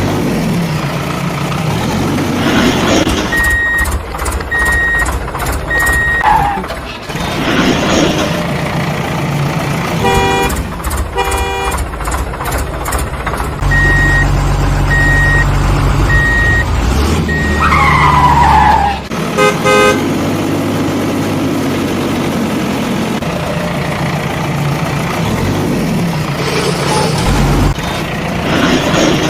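Heavy construction vehicles running, with a backup alarm beeping three times in two separate runs, and a horn giving two short toots and later one more blast.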